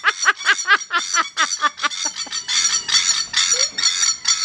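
A flock of keas (New Zealand mountain parrots) calling loudly. For about two seconds there is a fast run of harsh calls, each sliding down in pitch, several a second, then a denser chorus of rough, overlapping screeches.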